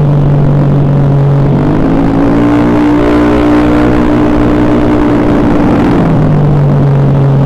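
Freshly rebuilt Honda BeAT carburettor scooter's single-cylinder engine idling, then revved up about two seconds in and held at higher revs before dropping back to idle about six seconds in.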